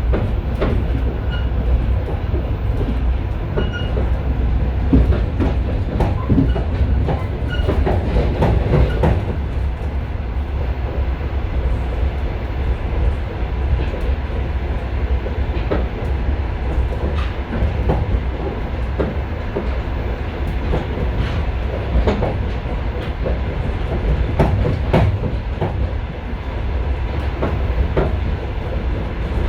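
Passenger railway carriage running at speed, heard from its vestibule: a steady low rumble with wheels knocking over rail joints now and then.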